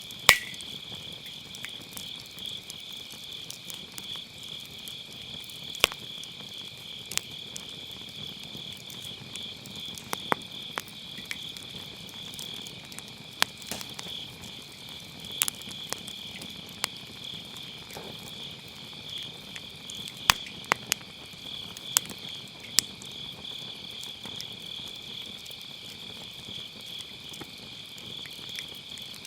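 Crickets and other autumn grass insects chirring steadily in a high, finely pulsing chorus, while a firewood fire in a round fire pit crackles, with sharp pops every second or few, the loudest just after the start.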